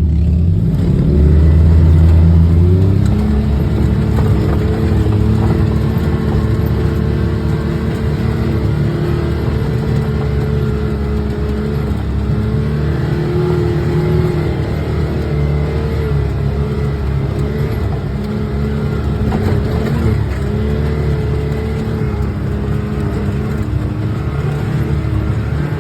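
Can-Am Maverick X3 Max side-by-side's turbocharged three-cylinder engine running as it drives along. It is loudest for the first couple of seconds, then holds a fairly steady pitch with small rises and falls.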